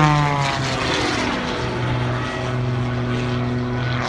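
Wolf Pitts Pro aerobatic biplane's 400-horsepower radial engine and propeller. The engine note drops in pitch over the first half second, then settles into a steady, lower drone.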